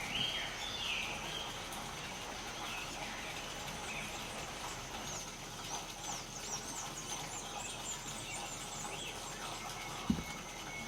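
Birds calling: slurred whistled notes near the start, then a run of quick, thin, high notes in the middle, over a steady high tone. A brief low thump comes near the end.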